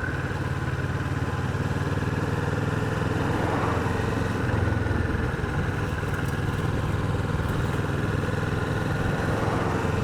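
Kawasaki Vulcan 650's parallel-twin engine running steadily at low speed.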